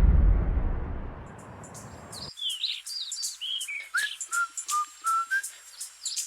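A fading low rumble that cuts off abruptly about two seconds in, then birdsong: a string of clear whistled chirps, some gliding down and some held level, mixed with sharp little clicks.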